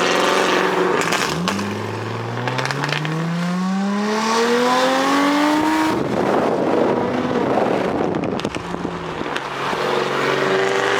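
Car engine accelerating hard, its pitch climbing steadily for about four seconds, then giving way to a few seconds of rushing noise before a steadier engine tone returns near the end.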